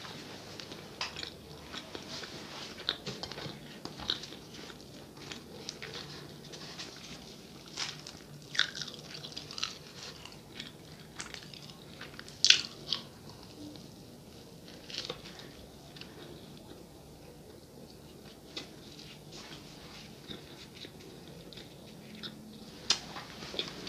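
Close-miked chewing and mouth sounds of someone eating peta de queijo, a puffy cheese snack, with a scatter of short crisp crunches. The loudest crunch comes about halfway through, and a couple more sharp ones come near the end.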